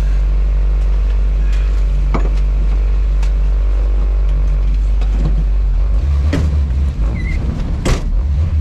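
Lada Niva engine running with a steady deep hum. Its note steps up about six seconds in. A few sharp knocks and rattles sound over it, the loudest near the end.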